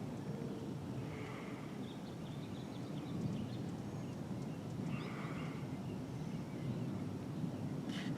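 Birds chirping in short bursts a few seconds apart, over a steady low background noise.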